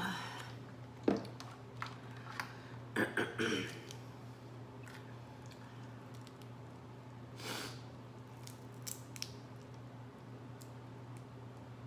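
Seafood shells, crab and crawfish, being cracked and broken apart by hand while eating. There are scattered sharp snaps and short wet crunches, the busiest cluster about three seconds in, with quieter chewing between.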